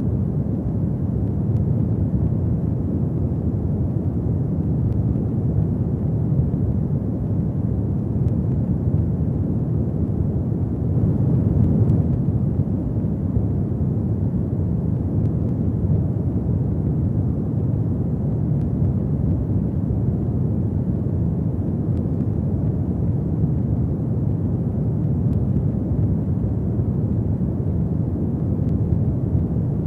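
Fire burning in a fireplace: a steady low rumble with faint, scattered crackles and a slight swell about halfway through.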